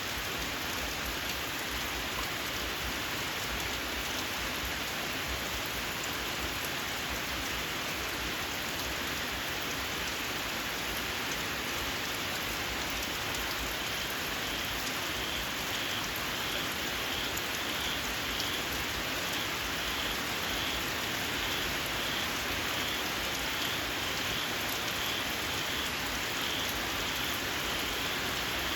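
Steady rain falling. From about halfway in, a small frog calls in a steady run of short, high chirps, roughly two a second, over the rain.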